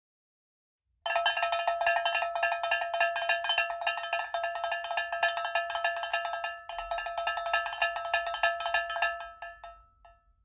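Metal struck rapidly and repeatedly, ringing at a steady pitch. It starts abruptly about a second in, breaks off briefly past the middle, and dies away near the end.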